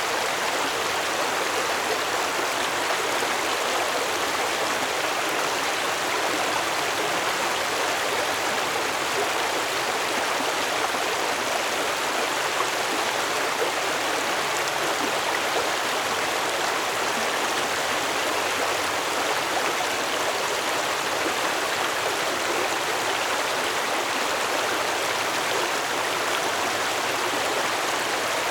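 Stream water flowing and splashing over rocks, a steady even rush with no breaks.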